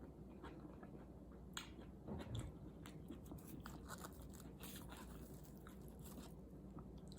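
Faint chewing and mouth sounds of a person eating, a scatter of small wet clicks with a slightly louder patch about two seconds in.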